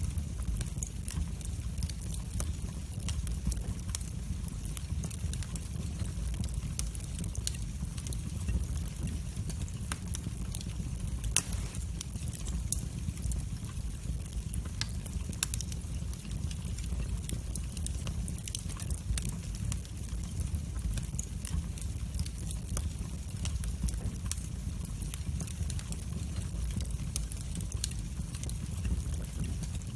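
Wood fire burning in a fireplace: a steady low rumble of the flames with frequent sharp crackles and pops throughout, one louder pop about eleven seconds in.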